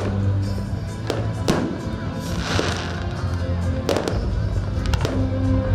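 Fireworks going off: several sharp bangs at irregular intervals, with a burst of crackling about two and a half seconds in, over music with a steady bass line.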